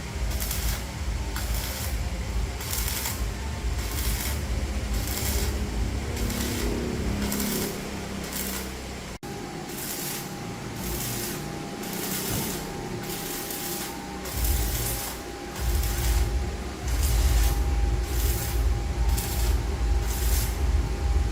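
Rhythmic scraping strokes of a hand tool working metal, about two a second, over an uneven low rumble. A steady tone joins about halfway through.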